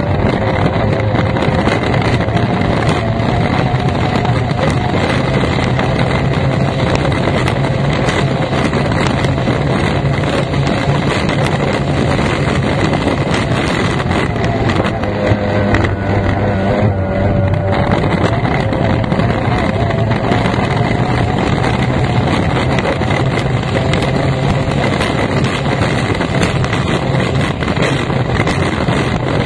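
F1 racing powerboat's outboard engine running hard at speed, with wind noise on the microphone. The engine note shifts briefly near the middle, then settles back to a steady drone.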